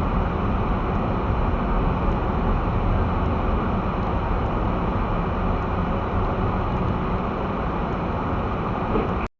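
Steady road noise inside a car driving slowly on snow-covered streets: tyres on snow and the engine make a low, even rumble. It cuts off abruptly to silence near the end.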